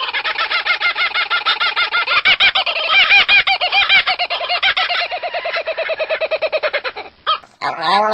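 A chicken giving a long, unbroken run of rapid clucks, several a second, each rising and falling in pitch, that stops abruptly about seven seconds in. A different, lower drawn-out call starts just before the end.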